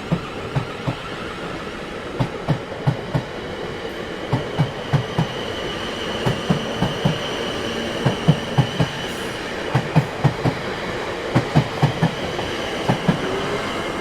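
Train wheels rolling over rail joints: a steady rumble with a clickety-clack of knocks in pairs and small groups, and a thin high whine running over it.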